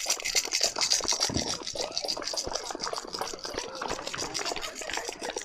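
A crowd of neighbours clapping in a dense patter, mixed with the shaking of a hand rattle that is loudest in the first couple of seconds.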